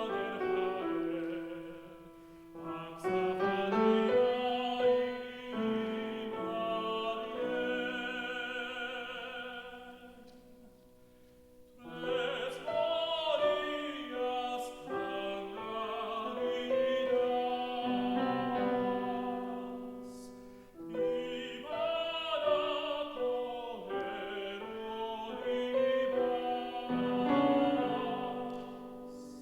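Operatic tenor singing a Spanish folk-style song with piano accompaniment, in long phrases with vibrato. The phrases break off twice, the first break nearly silent.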